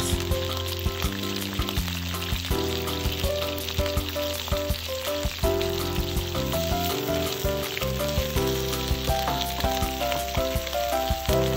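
Cut komatsuna stems sizzling and frying in hot oil in a frying pan, with small clicks as they are stirred. Background music plays under it.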